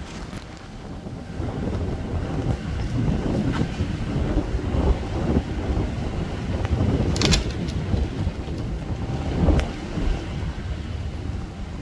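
Wind buffeting the microphone: a gusty, uneven rumble that swells and fades, with two sharp clicks partway through.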